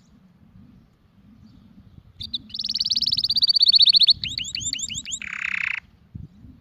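Domestic canary singing one song phrase about two seconds in: a fast, high trill, then a run of quick swooping notes, ending in a short buzzy rasp.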